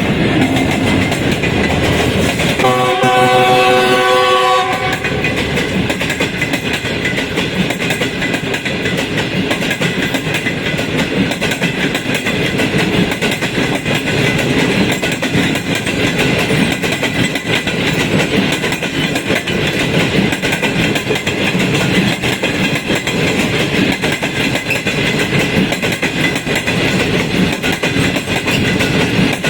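Train horn blowing a chord for about two seconds near the start, over the continuous rumble and clickety-clack of a passenger train running on the rails.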